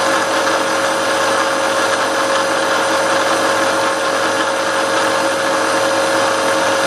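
Milling machine running steadily with a constant whine while its cutter makes a light clean-up pass along the side of the block to finish the face.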